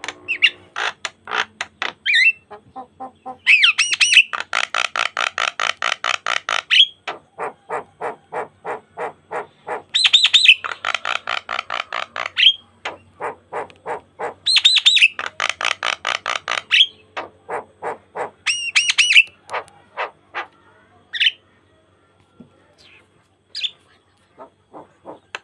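Javan myna (jalak kebo) in full energetic song: fast series of short repeated notes, with three long, loud phrases that each open with high whistled notes. The song thins to scattered notes near the end.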